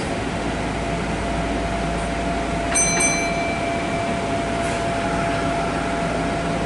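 Kintetsu electric train standing at a station, heard from inside the driver's cab: a steady hum of its onboard equipment with a thin steady whine, and a short click near the middle.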